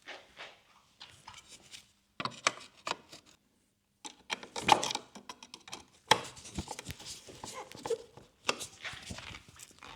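Hands working on a motorcycle's headlight: irregular clicks, knocks and rubbing as parts are handled, in short clusters with brief silent gaps. The sharpest knocks come about halfway through.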